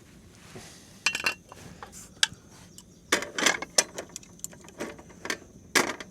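Metal cookware and utensils clinking and knocking: a handful of irregular clinks, some with a short ring, with sharp ones about a second in, a cluster around three seconds in and another near the end.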